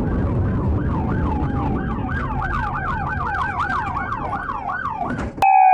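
Police car siren in a fast yelp, its pitch sweeping up and down about three or four times a second, over road and engine noise. It cuts off abruptly near the end, giving way to a clean, slowly falling tone.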